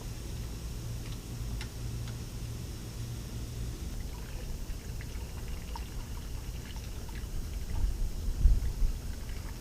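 Antifreeze being poured into the engine's cooling system, a faint pour and trickle over a steady low rumble, with a few louder low thumps near the end.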